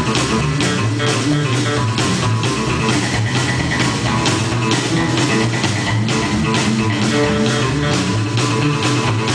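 Live outlaw-country band playing an instrumental break with guitar, bass guitar and drum kit, the drums keeping a steady beat of about two hits a second.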